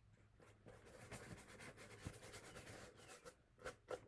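Faint, repeated strokes of a paintbrush brushing paint onto cardboard.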